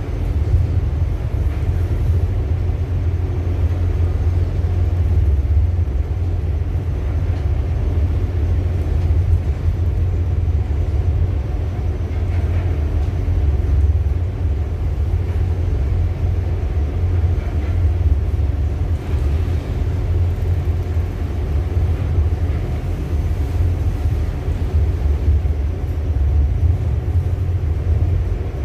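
Steady deep rumble on board a ship at sea in heavy weather, unbroken throughout with slight swells in loudness.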